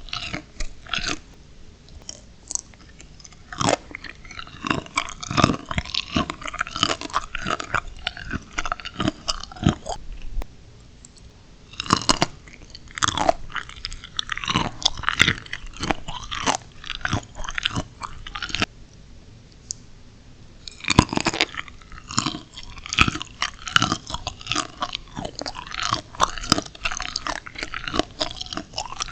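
Biting into and chewing crunchy steamed shrimp, a dense run of crisp crackles and crunches. It eases off twice, and each time a fresh loud bite starts the crunching again.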